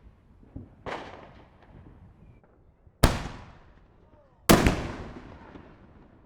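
Distant fireworks going off: a softer bang about a second in, then two loud, sharp reports about three and four and a half seconds in, each trailing off in a long echo.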